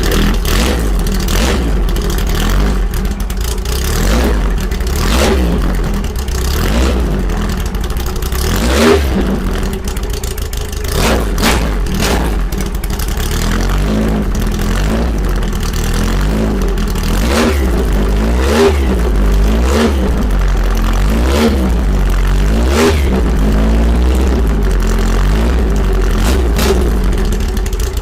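2276cc air-cooled VW-based flat-four race engine with dual 48 IDA carburettors and a merged exhaust with stinger, running fast above idle and blipped about nine times, the pitch rising and falling with each blip. It is kept off idle to keep the oil moving, but well short of its 7,000 to 9,000 rpm range.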